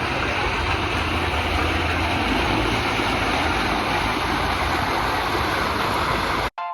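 Steady rushing water from a pool's water features, with a low rumble underneath; it cuts off abruptly near the end.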